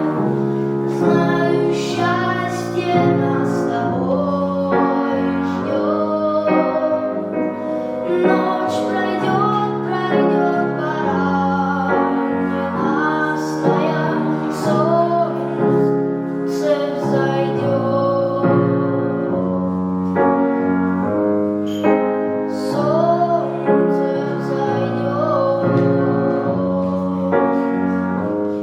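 A solo voice singing a melody with vibrato, accompanied by piano.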